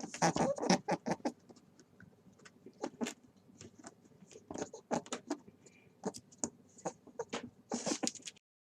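A small animal making quick, irregular scratching and clicking sounds, with a few faint high squeaks.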